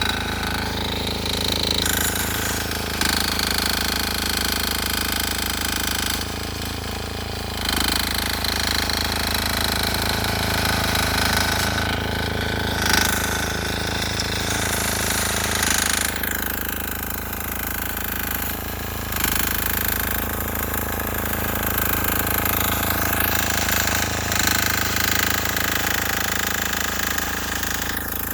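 A 6 hp air-cooled single-cylinder diesel engine on a Sears Suburban garden tractor runs with a hard, rapid knocking beat. It keeps a steady pitch, with small swells in level as it works through the snow.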